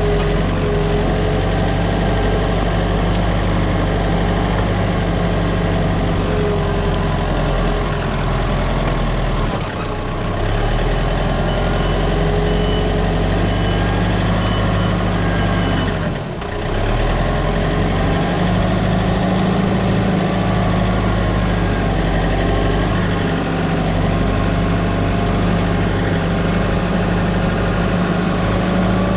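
A heavy machine's engine running steadily, dipping briefly twice as if it comes under load, with a faint repeated beeping for a few seconds near the middle.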